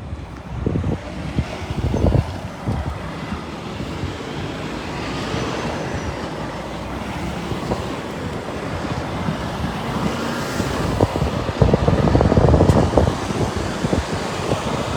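Heavy lorries rumbling past in a slow convoy, with wind buffeting the microphone. The rumble swells about eleven seconds in as a louder vehicle goes by.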